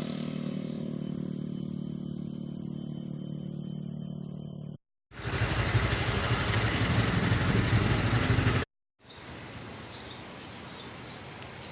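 Three short sections split by abrupt cuts. First a vehicle engine runs with a steady hum. Then comes a louder even rush of road and wind noise, and finally quieter outdoor ambience with a few brief bird chirps.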